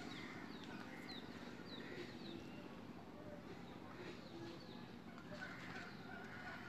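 A small bird chirping repeatedly, short high notes that drop in pitch, about two a second, growing sparser after the first couple of seconds.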